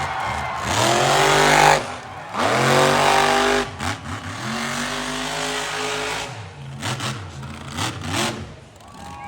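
Monster truck engine revving hard three times in a row, the pitch climbing steeply on each blip of the throttle. After the third rev it drops back to a lower, more broken running sound near the end.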